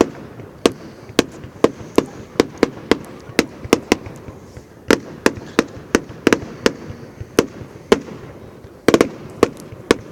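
Fireworks going off: an irregular run of sharp bangs, about two or three a second, with a quick cluster of bangs near the end.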